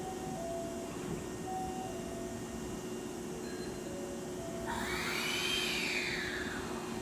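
Hankyu electric train running with a steady mechanical drone and hum. About five seconds in, a high whine rises in pitch and then falls away over a second and a half.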